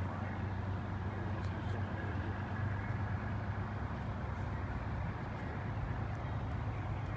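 Steady low engine rumble with a constant hum, holding level without rising or falling.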